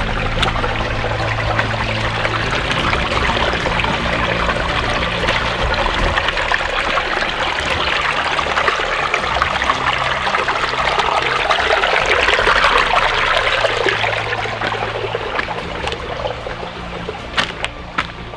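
Water of a small rocky forest stream trickling and running steadily, swelling a little past the middle, with a few sharp knocks near the end.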